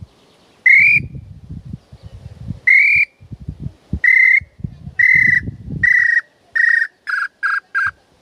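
Hand-made bird-call whistle (pio) blown in a series of eight clear whistled notes. The notes start long and slightly rising, then grow shorter, quicker and a little lower towards the end, with low rustling between them.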